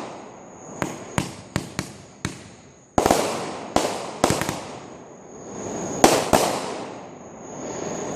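Fireworks going off: about ten sharp bangs in irregular clusters, some in quick pairs and runs, each followed by a fading rumble.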